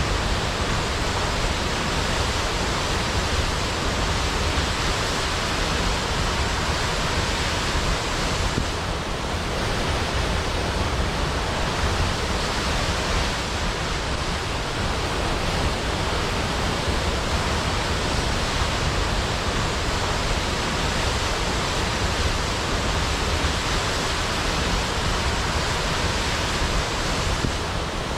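Large waterfall plunging into a pool, a steady, dense rush of falling water with a deep low rumble.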